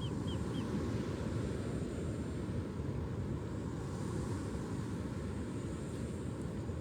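Steady low rumble, with a bird's short chirps about three a second that stop within the first second.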